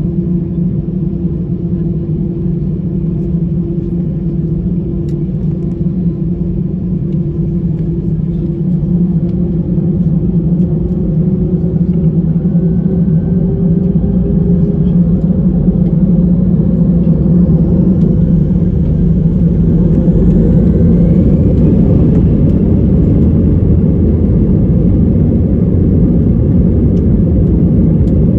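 Airbus A320-family airliner's jet engines heard from inside the cabin, spooling up for takeoff: a loud steady drone whose whining tones climb in pitch while the level grows through the second half.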